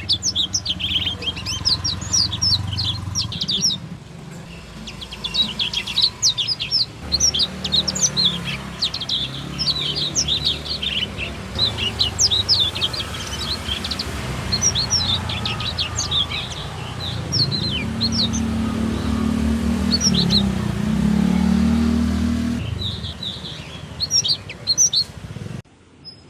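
Several caged songbirds chirping and singing in quick, dense high notes, over a low engine rumble that swells about two thirds of the way through.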